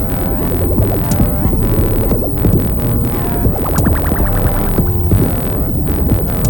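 Electronic music played on hardware synthesizers and a groovebox: a steady low bass pulse under a beat of regular percussive hits, with a fast stuttering note roll from about three and a half to nearly five seconds in.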